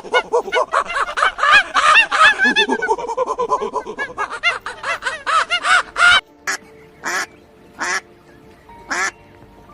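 Birds calling: a rapid, overlapping run of short calls that stops suddenly about six seconds in, then single calls about once a second.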